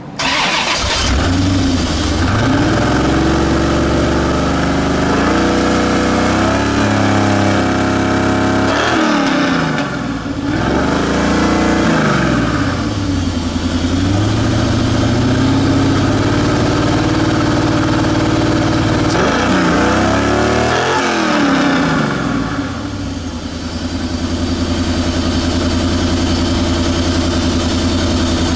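1990 Corvette C4's 5.7-litre L98 V8 running while it warms up after a coolant refill: it comes in suddenly at the start, is revved up and back down a few times, about nine seconds in and again around twenty seconds, then settles to a steady idle.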